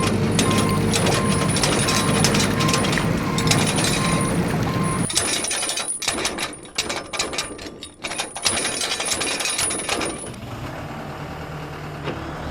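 Heavy vehicle engine running with a short beep repeating about twice a second, like a reversing alarm. About five seconds in, the engine drops away and rapid clattering and rattling takes over, then fades to a quieter hum near the end.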